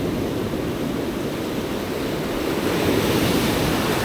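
Ocean surf washing in on the beach, a steady rush that swells a little from about two seconds in, with wind on the microphone.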